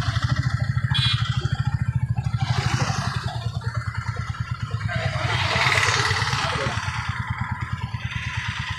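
Motorcycle engine idling with a steady, fast low pulse. A hiss of noise swells and fades about five to seven seconds in.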